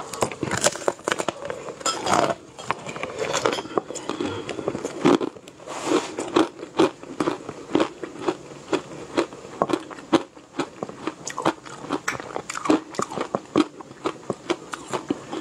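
Close-miked crunchy biting and chewing of hard food, a steady run of sharp crunches a few times a second.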